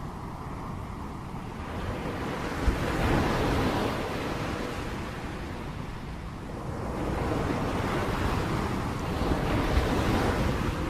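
Rain noise, a steady hiss with a deep rumble underneath, swelling twice in slow surges a few seconds long.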